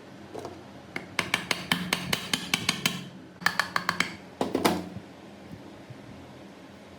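Rapid light taps of hard metal parts, about seven a second, in three bursts, the first and longest starting about a second in.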